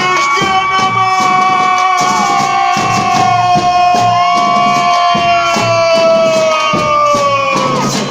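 Samba batería playing: rhythmic drum strokes and shaken jingles under long held pitched tones, one of which slides lower near the end.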